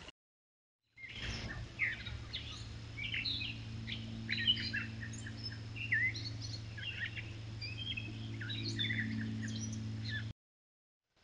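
Songbirds chirping: many short, quick chirps and whistles from more than one bird, over a steady low hum. It starts suddenly about a second in and cuts off abruptly near the end.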